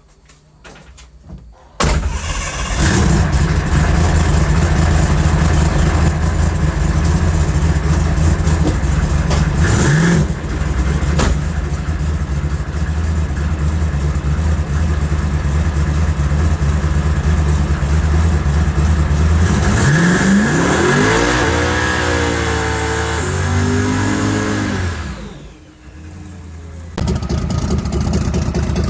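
Twin-turbo Dodge Charger Hellcat drag car's V8 engine, coming in suddenly about two seconds in and running loud and steady. Near the end the revs rise and fall, then the sound drops away briefly before changing abruptly.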